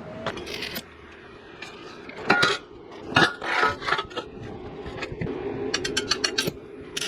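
Metal pieces being handled: irregular clinks and knocks, with a quick rattling run of small ticks near the end.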